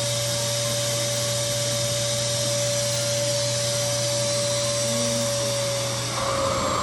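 RevAir reverse-air (suction) hair dryer running steadily on a low setting: an even rush of air with a steady motor whine and low hum.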